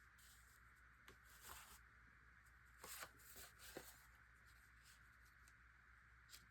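Near silence broken by the faint rustle and slide of paper being handled, in short bursts about a second in and again around three seconds in.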